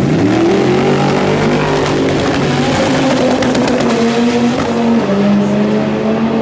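Car engine revved hard and held at high revs, stepping slightly in pitch, over a loud hiss of spinning tyres in a burnout.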